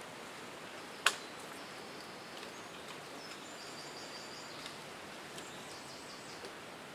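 Small birds calling with thin high notes and quick runs of chirps over a steady outdoor hiss, with a single sharp click about a second in as the loudest sound.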